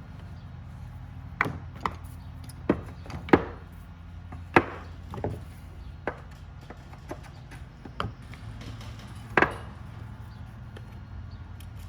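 Irregular knocks and clicks of small parts and tools being handled during work on an RC car's suspension, about ten sharp taps spread unevenly, over a steady low hum.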